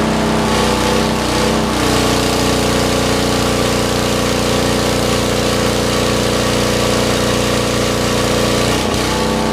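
Lincoln Weldanpower 150 engine-driven welder running steadily. Its engine note shifts about two seconds in and glides back near the end, as welding load comes on and off.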